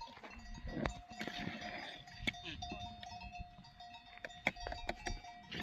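Bells on grazing goats and sheep clinking irregularly, with animals bleating.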